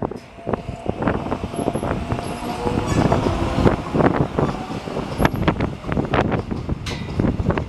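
Seoul Subway Line 4 electric train moving past the platform, its wheels clacking over and over as it rumbles along, with wind blowing on the microphone.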